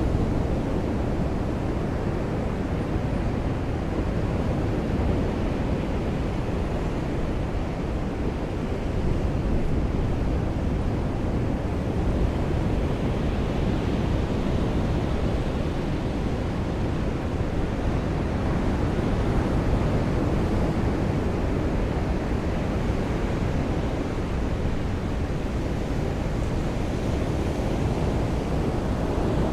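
Ocean surf and rain at a beach: a steady, dense rush weighted toward the low end, rising and falling slightly every few seconds.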